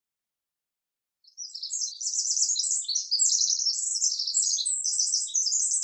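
Birds chirping in a rapid, dense run of high-pitched chirps and trills, starting suddenly about a second in after dead silence.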